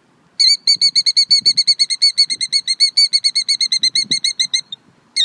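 A ground-nesting bird guarding its eggs gives a fast, even run of sharp, high, repeated alarm calls, about nine a second, for about four seconds. After a short pause it gives one more call near the end.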